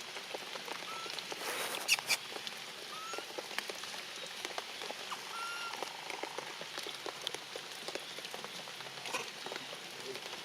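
Rain pattering steadily with many small drip ticks, and a few brief high squeaks scattered through it.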